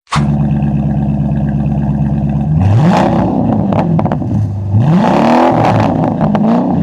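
Dodge Charger's 5.7L Hemi V8 idling, then revved three times, the engine note rising and falling back each time; the third rev is shorter than the first two.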